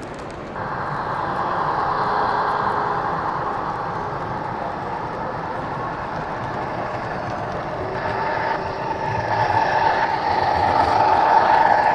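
HO scale model train with hopper cars running on the layout track: a steady rolling rattle with a faint motor whine. It grows louder as the train passes close near the end, then eases off.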